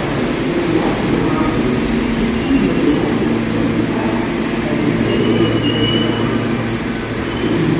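New York City subway train running on the rails: a steady rumble and low hum, with a faint thin high tone about two-thirds of the way through.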